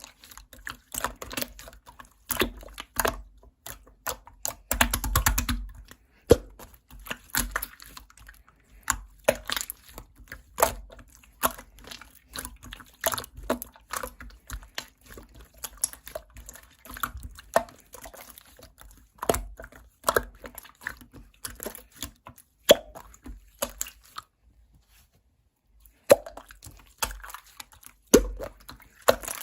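Slime being pressed and squished by hand, giving a continuous run of crisp clicks and small wet pops, with a short pause about four-fifths of the way through.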